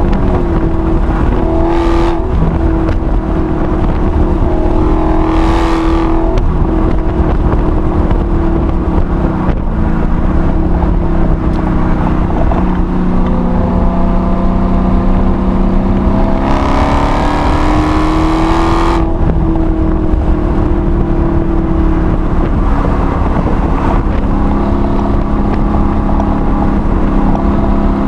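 Supercharged 6.2-litre V8 of a six-speed manual Hellcat, heard from inside the cabin while driven hard on track. Engine pitch climbs under full throttle and drops off with lifts and gear changes. The longest and brightest pull comes about two-thirds of the way through, and the engine runs steadier near the end.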